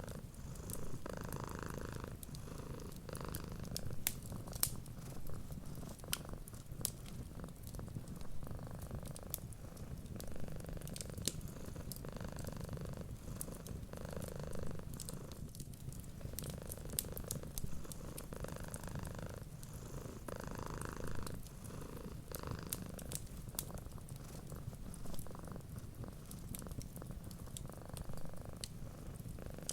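A cat purring steadily, a low rumble that swells and eases with each breath, over light crackling clicks from a wood fire.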